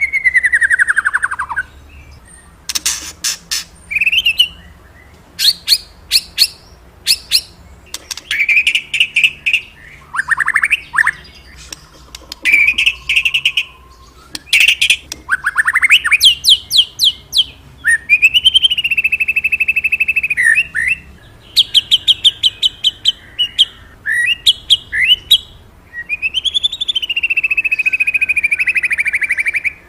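Murai, a Copsychus songbird, singing loud, varied phrases: fast trills of quickly repeated notes alternate with long, high notes that rise and fall, with short pauses between phrases.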